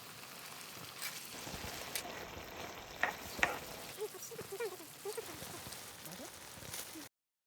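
Food sizzling as it fries in a pan, with a couple of sharp utensil clicks about three seconds in. The sound cuts off suddenly near the end.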